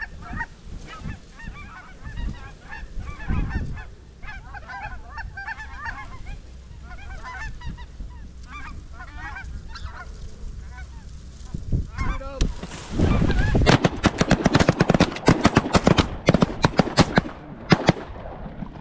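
A flock of geese honking and yelping, many short calls overlapping. About twelve seconds in the sound turns much louder and denser, a rapid run of sharp sounds that lasts about five seconds before dropping back.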